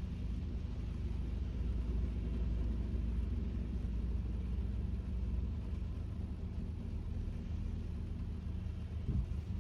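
Steady low rumble of road and tyre noise from a Kia K5 (DL3) driving on a rainy day, heard inside the cabin, with a brief louder swell near the end.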